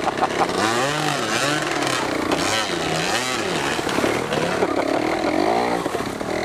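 Dirt bike engine revving up and down over and over as the throttle is opened and closed.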